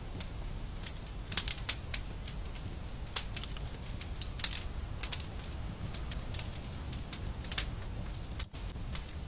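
Wood fire crackling: irregular sharp pops and snaps over a steady low rumble of burning logs. The sound cuts out for an instant near the end.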